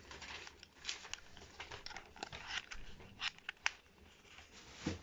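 Irregular light plastic clicks and rustling from batteries being fitted into a small remote control and its casing being handled.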